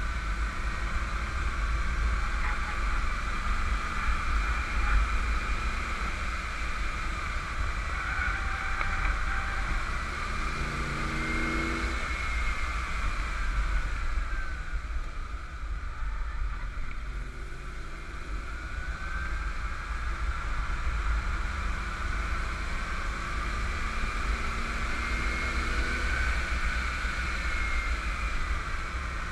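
1991 Camaro Z28 1LE's 305 TPI V8 running hard at track speed, its pitch sinking and then climbing again through the lap as the car brakes and accelerates. Heavy wind rumble on the microphone runs underneath.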